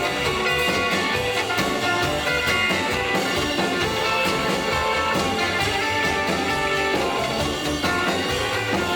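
Live rockabilly band playing an instrumental break: a lead electric guitar solo over bass and drums.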